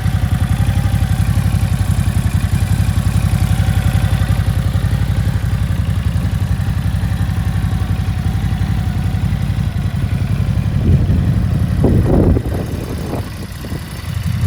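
Ducati Hypermotard 950's twin-cylinder engine idling with a steady, fast low pulse. About eleven seconds in there is a brief louder burst of sound, after which it runs a little quieter.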